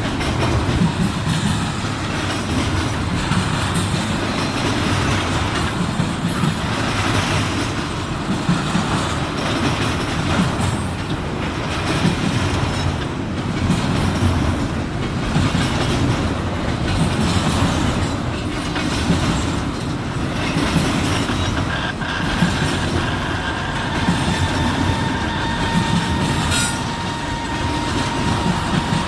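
Intermodal freight train rolling past close by: steady rumble of the cars, wheels clattering over the rail joints and switches. About three-quarters of the way through, a thin steady wheel squeal joins in.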